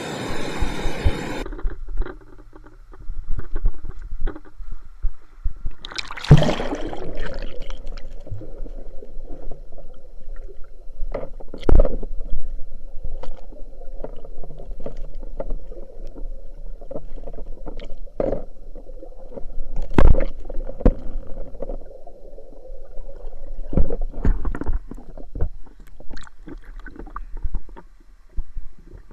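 Muffled underwater sound as the camera goes under the river's surface: the rush of the current cuts off about a second in, giving way to low rumbling and gurgling, scattered sharp knocks and a faint steady hum.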